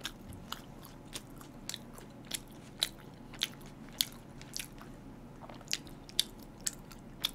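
Close-miked chewing of a toasted sandwich, with small wet mouth clicks about twice a second.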